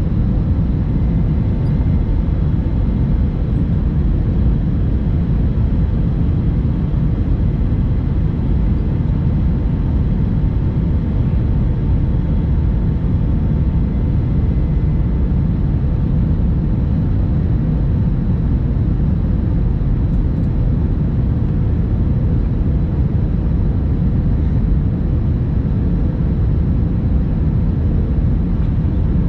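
Steady engine and airflow noise inside an Airbus A321 passenger cabin in flight: a deep, even rumble with a few faint steady engine tones over it.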